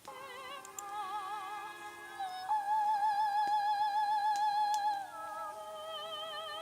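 Recording of a young girl singing in an operatic style: long held high notes with wide vibrato, the loudest a sustained note in the middle, dropping to a lower held note near the end.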